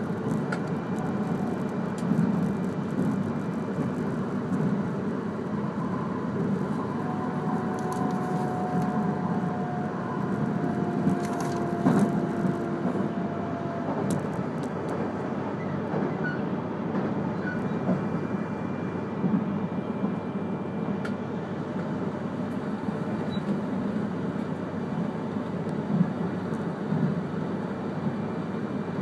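Steady running noise inside a passenger car of an E3-series Komachi train at speed: a continuous wheel-on-rail rumble with a few sharp clicks, and a faint thin whine for several seconds midway.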